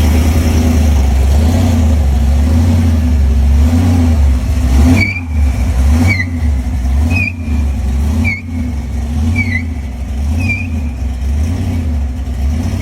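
A muscle car's V8 engine running at low revs with a lumpy, wavering note. From about five seconds in, a short high chirp repeats about once a second, six times over.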